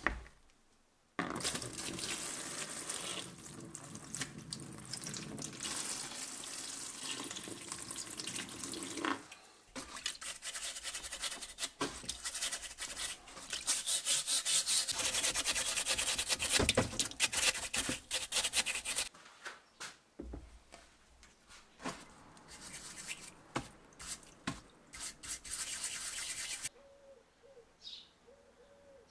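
Scrubbing of the vise's metal: a brush rubbing in quick repeated strokes, in long stretches with short pauses, loudest in the middle and quieter with a few light knocks near the end.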